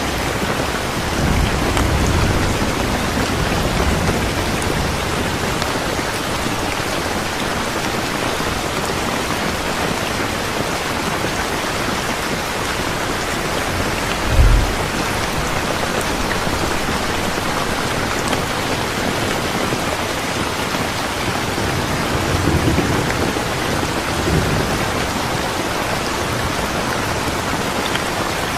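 Steady rain falling, with low rumbles of distant thunder near the start and again near the end. A short, deep thump about halfway through is the loudest moment.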